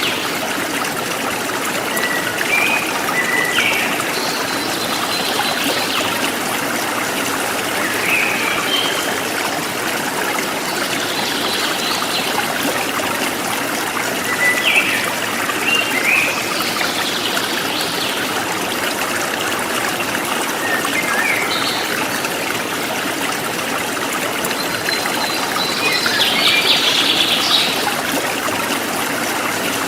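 A stream running steadily, with birds calling over it in short chirps and whistles every few seconds, busiest near the end.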